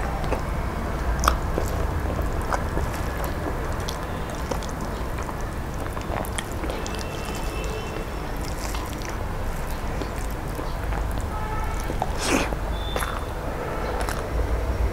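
A person chewing and eating food by hand, close to the microphone, with scattered mouth clicks over a steady low rumble.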